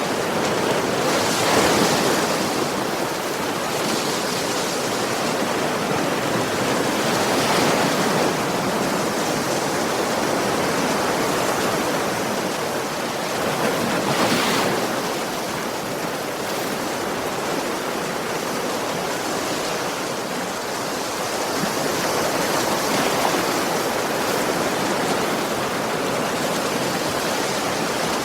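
Ocean surf: a continuous wash of waves breaking on a shore, swelling louder with each incoming wave every several seconds.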